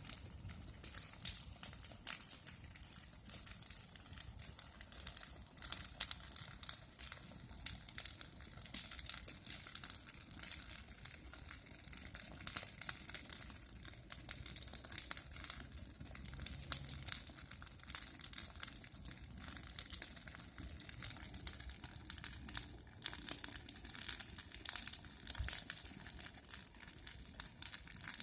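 Bonfire of burning branches crackling, a dense run of small snaps and pops over a soft hiss.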